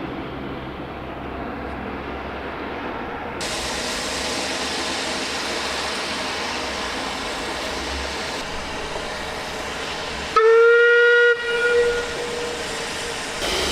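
Narrow-gauge steam locomotive running with a steady hiss and rumble, then one short, loud blast on its whistle about ten seconds in, lasting about a second and cutting off abruptly.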